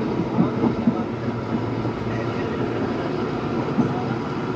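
Train hauled by a WDP4B diesel locomotive, running with a steady low rumble. A few short knocks come about half a second to a second in and again near the end.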